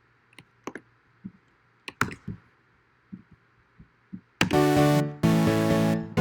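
A series of computer mouse clicks in a quiet room. About two-thirds of the way in, playback of a house-music loop starts loud with sustained chords, cuts out briefly twice and restarts.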